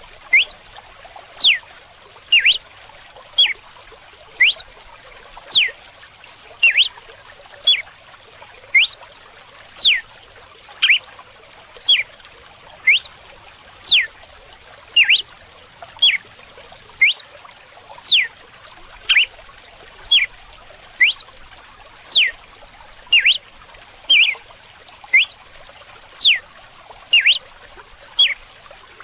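Red-cowled cardinal (galo-de-campina) singing its whip song: a steady run of short, sharp whistled notes about one a second, many sweeping steeply down in pitch, some given as quick pairs. Running water trickles underneath.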